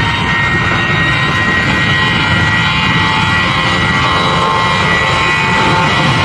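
Jet airliner engines running with a steady, loud noise and a high whine held on several steady tones.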